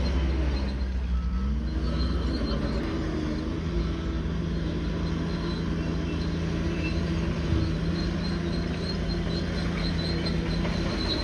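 Heavy diesel bulldozer engine running under load, its pitch dropping about a second in and climbing back before settling to a steady run. Two short beeps sound about a second and a half in.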